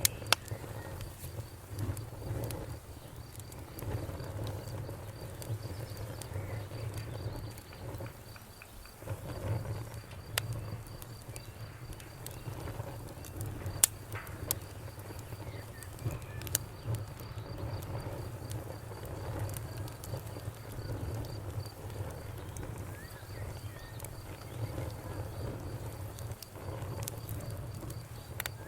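Campfire crackling, with scattered sharp pops over a steady low rumble, while a cricket chirps in a steady, evenly pulsing trill.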